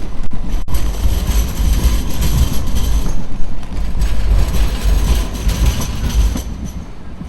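Light rail tram passing at street level, a loud rumble with a thin steady high whine over it, fading about six and a half seconds in.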